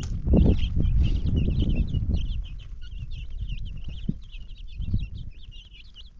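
Many birds chirping in quick succession over a low rumble, which is loudest in the first two seconds and then dies down.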